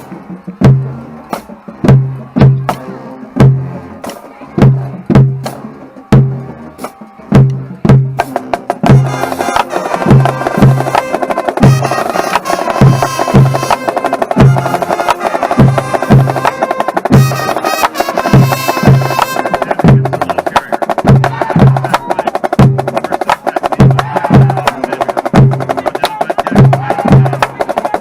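Marching band drumline playing a steady beat of about two low bass-drum hits a second with sharp stick clicks. About eight seconds in, the band's horns come in over the drums.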